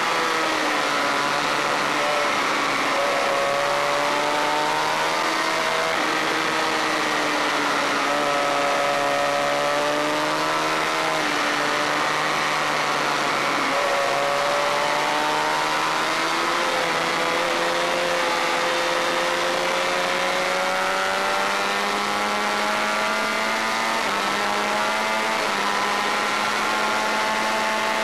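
Honda VFR400 race bike's V4 engine, heard onboard at racing speed over a steady hiss. The engine note climbs and drops several times in the first half, dipping about halfway through, then rises slowly for the rest in small steps.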